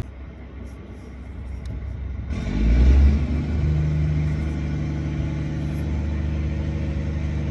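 Freightliner 122SD semi truck's diesel engine starting up with a low surge about two and a half seconds in, then settling into a steady idle.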